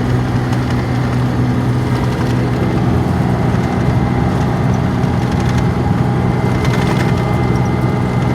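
Steady engine and road noise of a car being driven, heard from inside the cabin, with a constant low hum.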